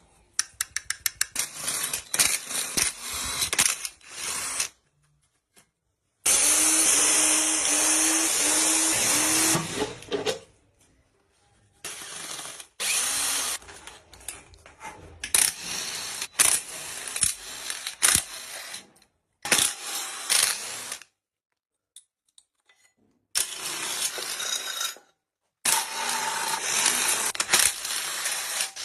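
Intermittent runs of a power tool and tool clatter on an engine, in bursts of up to about four seconds with sharp clicks between them and abrupt cuts to silence.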